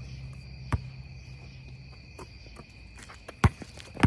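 A basketball bouncing on an outdoor court a few times, the loudest bounce near the end, over a steady high chirring of crickets.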